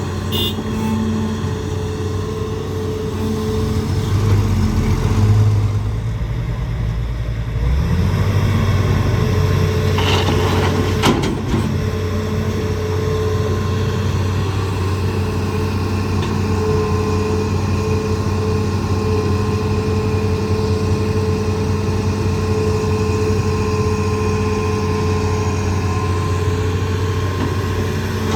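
Hitachi ZAXIS200 excavator's diesel engine running steadily, rising in load and heavier for a few seconds about four seconds in. A couple of sharp knocks sound about ten seconds in.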